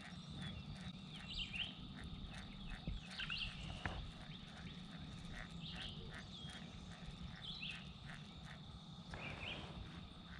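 Faint outdoor river ambience: short bird chirps every second or two over a steady high-pitched tone and a fast, even pulsing, with a low rumble underneath.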